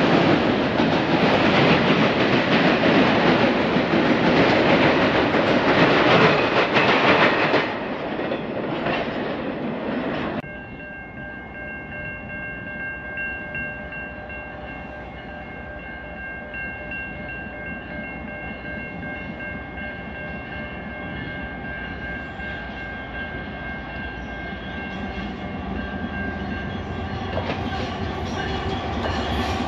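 A double-stack container freight train's wheels and cars rolling loudly on the rails, easing off about eight seconds in and cutting out about ten seconds in. Then a quieter stretch with a few steady high tones, as an approaching BNSF intermodal train's diesel locomotives grow steadily louder near the end.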